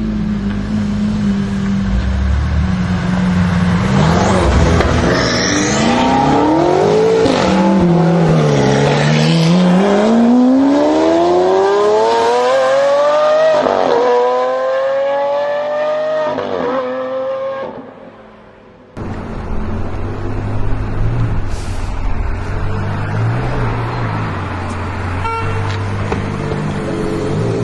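Supercar engine accelerating hard, its pitch climbing steeply in one long pull, then rising twice more after sudden drops at the upshifts. The sound fades out, and after a sharp cut a second car's engine runs at a steadier, lower pitch.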